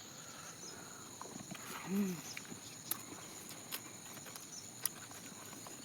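Quiet eating sounds: a few short sharp clicks and smacks while chewing, with a brief hum-like vocal sound from a person about two seconds in, over a steady high insect drone.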